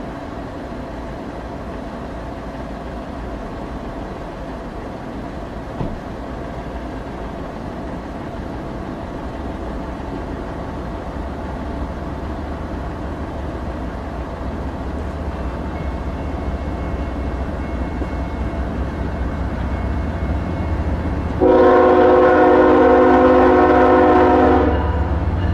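Diesel locomotives of an approaching freight train, rumbling and growing steadily louder. Near the end the lead GE ES44AC sounds its Nathan K5HL five-chime horn in one loud chord lasting about three seconds.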